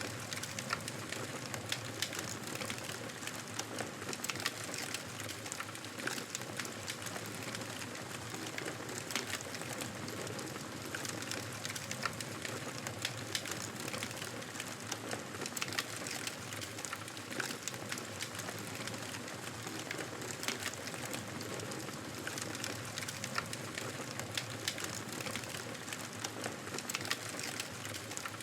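Wood fire burning in a fireplace: a steady hiss of flames with frequent sharp crackles and pops scattered throughout.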